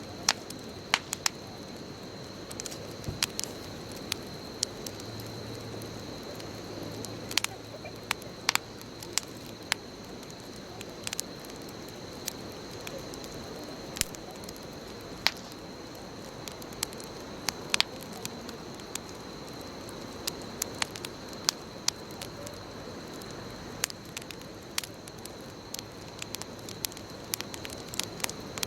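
Wood bonfire burning: a steady low rush of flame with frequent sharp, irregular pops and crackles from the burning wood. A faint steady high-pitched tone runs underneath.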